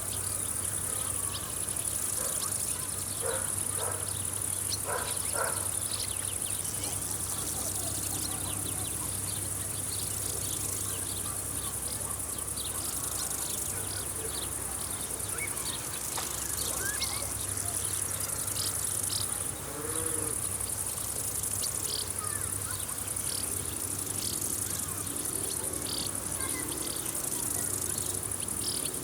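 Summer field insect chorus: a steady high-pitched buzz of stridulating insects, with scattered short chirps over it and a faint low hum beneath.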